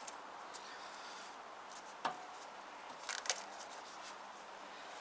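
A few faint clicks and one sharp knock from hands handling the scooter, over a low steady hiss; the engine is not yet turning over.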